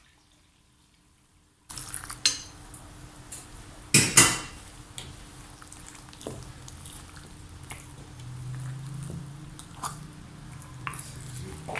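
Kitchen utensils and dishes clinking and clattering during cooking, starting about two seconds in, with two loud knocks about four seconds in.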